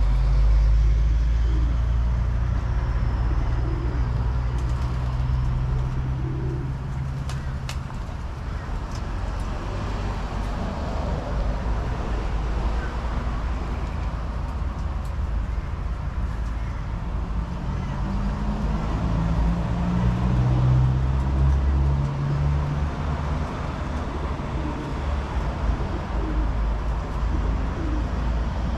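Pigeons cooing over the low, steady drone of vehicle engines and road traffic. The engine noise is loudest at the start and again about two-thirds of the way through. A few sharp clicks come about seven seconds in.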